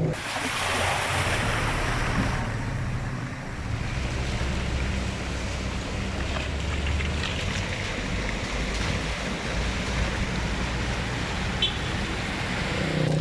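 Hurricane storm sound: wind gusting and buffeting the microphone with a low, uneven rumble, over a steady rush of surf.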